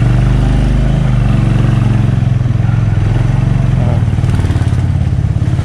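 350cc single-cylinder motorcycle engine running steadily at low road speed, heard from the rider's seat, with a low, even hum.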